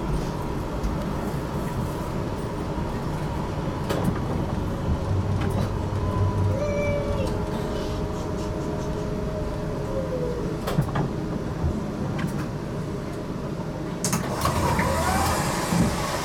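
Interior of an HTM GTL8 articulated tram running on its rails: a steady rumble with a few sharp clicks, and brief whining tones that glide in pitch in the middle and near the end.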